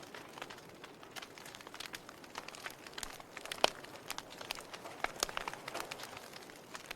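Log fire crackling: irregular sharp pops and snaps over a soft hiss, the loudest pop about three and a half seconds in.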